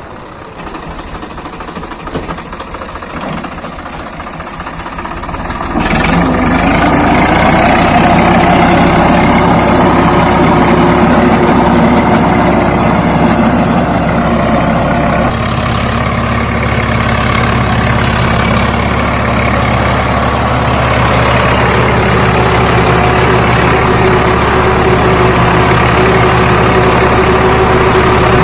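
Swaraj 855 FE tractor's three-cylinder diesel engine running. About six seconds in it suddenly gets much louder and stays loud and steady, with a change in its pitch about halfway through.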